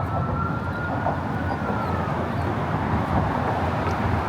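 Steady low rumble of road traffic, with a faint thin tone that slowly rises and falls.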